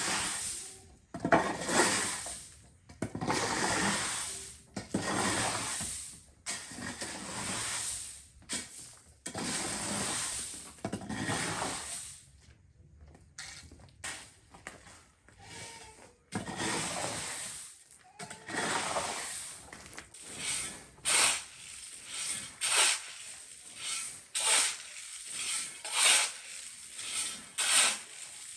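Drying corn being gathered up by hand: a series of rattling, rustling rushes, each one to two seconds long at first, then shorter and quicker about halfway through.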